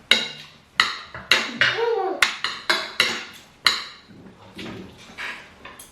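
Cutlery clinking and scraping against plates during a meal: a quick run of sharp clinks, each ringing briefly, that grows fainter after about four seconds.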